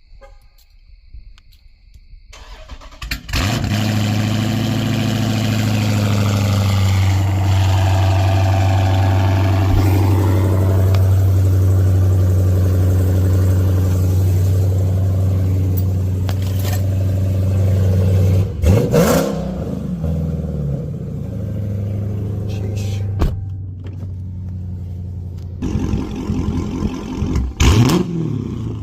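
Dodge Scat Pack's 392 HEMI V8 with its catalytic converters and mid muffler deleted, cold starting about three seconds in with a loud catch. It then runs at a steady, loud fast idle. The idle drops lower later on, and the engine is given a few sharp blips of the throttle near the end.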